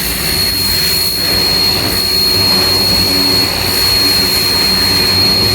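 Ava P25 high-pressure washer (110 bar) running and spraying: a steady loud hiss of the water jet with a constant high-pitched whine over it.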